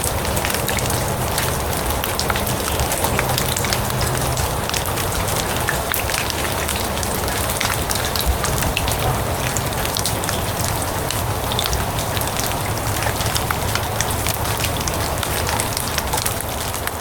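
Steady rain falling on grass and leaves: a dense, even hiss with many individual drops ticking sharply, over a low rumble.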